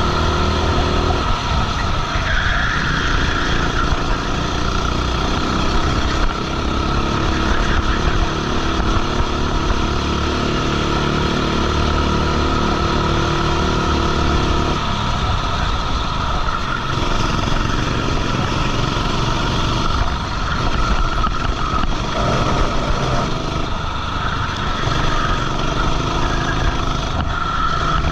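Go-kart engine running hard on a race track, its pitch rising and falling as the driver accelerates and lifts through corners, heard from the kart's onboard camera.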